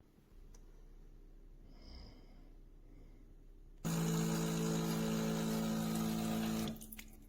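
De'Longhi Magnifica fully automatic coffee machine running: a steady hum with a hiss starts suddenly a little past halfway in, lasts about three seconds, and stops shortly before the end.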